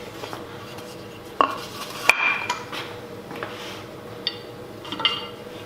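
A few separate metallic clinks and knocks of a sheet-metal panel and hand tools being handled, the sharpest about two seconds in, with two later ones ringing briefly.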